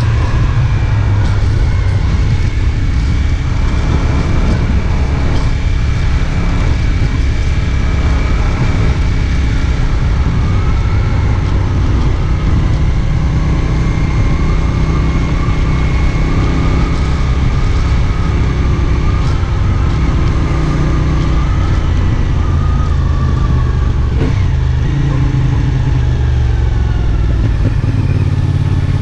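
CFMoto 450SR S parallel-twin motorcycle engine running at fairly steady revs while riding, loud and even throughout.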